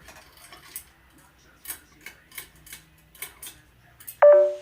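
A string of sharp, uneven clicks from a hand-spun Hunter ceiling fan whose motor doesn't work, then near the end a short, loud two-note tone that steps down in pitch.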